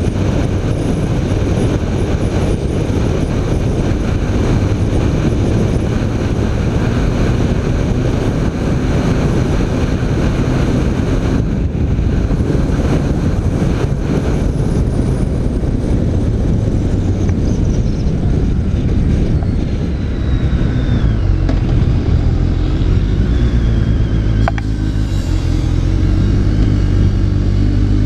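BMW K1300R's inline-four engine running while the bike is ridden, mixed with heavy wind and road rush. Over the last few seconds the engine note steadies and comes through more strongly.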